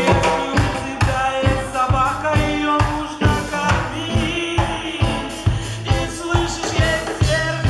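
Band music with a steady drum-kit beat and melodic instrument lines, in a passage of the song without sung words.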